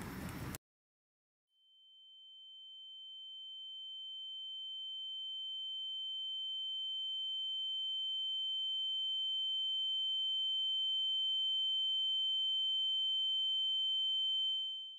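Background noise cuts to dead silence under a second in. Then a steady, high-pitched electronic tone, with a fainter lower tone beneath it, fades in and slowly swells louder, and dies away just before the end. It is a synthesized sound effect.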